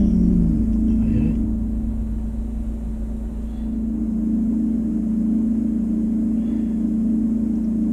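A steady motor hum with a constant low rumble, holding one even tone throughout and dipping slightly in level a couple of seconds in.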